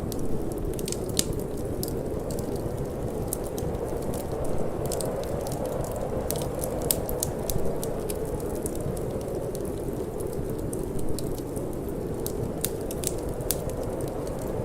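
Wood fire burning in a fireplace, crackling with frequent irregular sharp pops over a steady low rush of wind.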